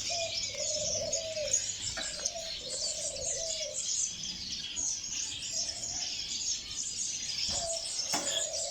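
Mixed aviary birds: many small finches chirping and twittering without pause, over which a dove coos in a run of low, arching coos through the first four seconds and twice more near the end.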